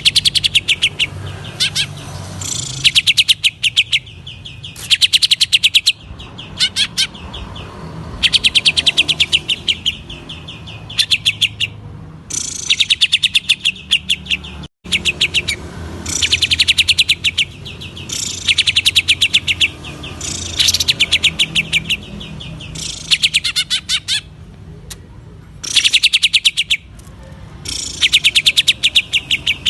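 Green leafbird (cucak ijo) singing in the 'ngentrok' style: rapid rattling trains of sharp, clicking notes about a second long, repeated every two to three seconds over a steady low hum.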